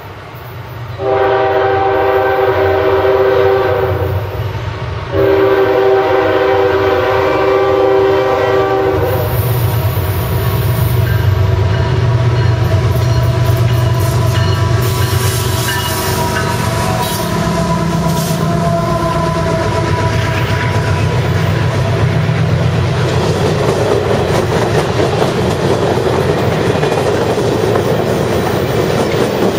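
A CSX diesel locomotive's air horn sounds two long blasts as the train approaches, then the diesel engines of the CSX GE ES44AH and AC6000CW locomotives rumble by, followed by the steady rumble and clickety-clack of the passenger cars' wheels rolling past.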